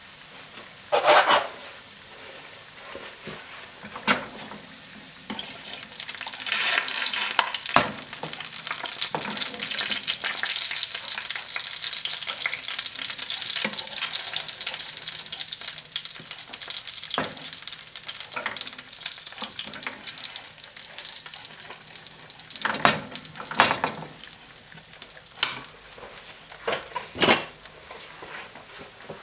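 Roast potatoes sizzling in hot oil: a steady crackling hiss, fuller for a few seconds early in the middle, with sharp spits and pops every few seconds.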